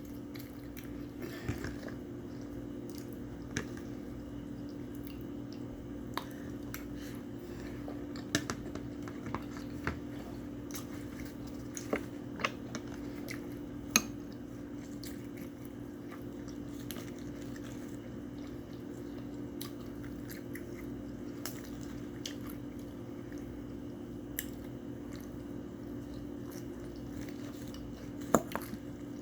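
Close-up mouth sounds of a person chewing and biting food, with scattered sharp clicks and smacks, over a steady low hum.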